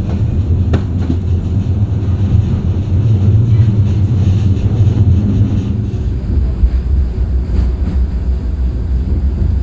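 Tram running on its rails: a steady low rumble with occasional faint clicks.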